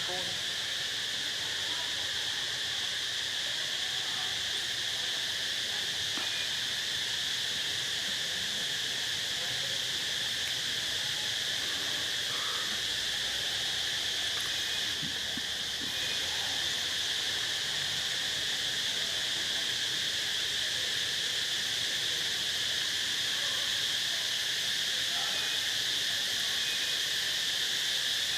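Insects singing in a steady, high-pitched chorus, slightly louder from about halfway in.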